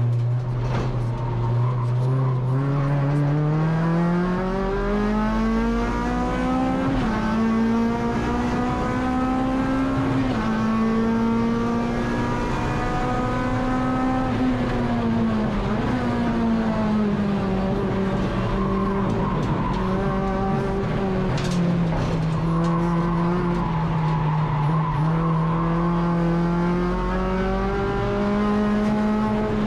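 Honda K24 four-cylinder engine of a Civic EG race car being driven hard, its note climbing steadily from low revs over the first several seconds, then falling and rising again with the revs through the rest of the stretch.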